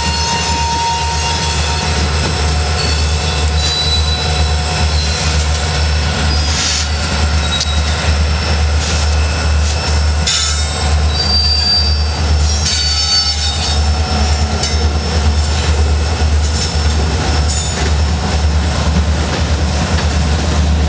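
A CSX diesel freight train passing close by: the steady low rumble of its locomotives, then covered hopper cars rolling past. High steel-wheel squeals come in about halfway through, along with clicks from the wheels on the rails.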